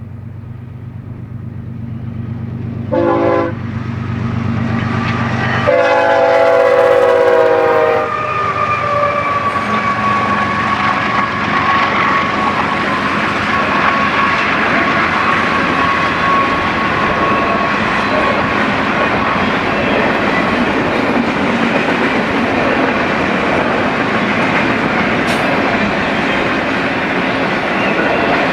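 BNSF freight locomotive sounding its air horn, a short blast about three seconds in and a long, loud one from about six to eight seconds, over the locomotives' steady engine hum. Then the steady rolling noise and clatter of the intermodal train's cars going by, with a faint steady high whine from the wheels until about twenty seconds.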